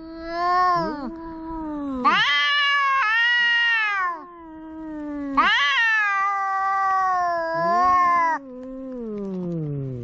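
Two tomcats caterwauling at each other in a standoff over a female: long, drawn-out yowls that overlap, one voice higher and one lower, the low one sliding down in pitch near the end.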